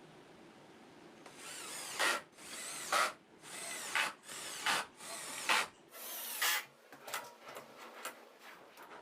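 A tool working wood in about six rhythmic, scratchy strokes roughly a second apart, followed by a few light clicks and taps near the end.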